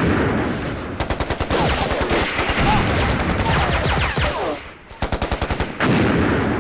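Battle-scene gunfire: several bursts of rapid machine-gun fire, about ten shots a second, among scattered single shots, with a few falling whines cutting through.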